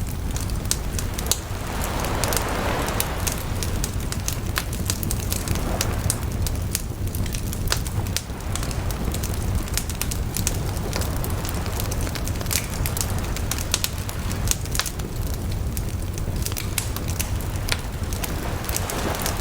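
Wood bonfire crackling, with many sharp pops scattered throughout over a steady low rumble, and a brief swell of hissing about two seconds in.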